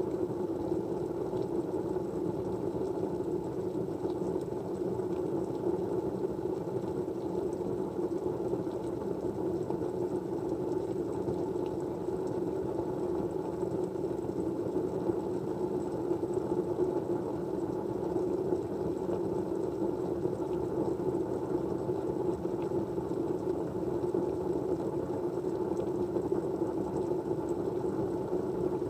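Steady, low rushing white-noise background, even throughout with no distinct events.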